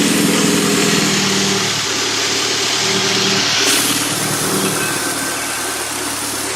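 1987 Pontiac Sunbird's four-cylinder engine running steadily at idle, with a hiss over the top.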